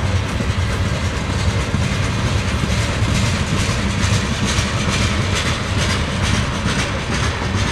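Loaded coal train rolling slowly past, its steel wheels humming on the rails, with light clicks in the middle of the passage.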